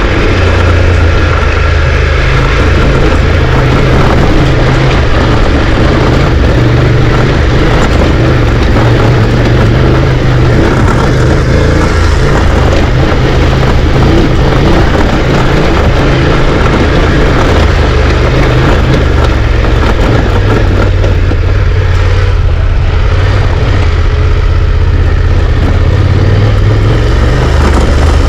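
A vehicle on the move, with a steady loud low rumble and constant rattling and knocking from its suspension, and little exhaust note.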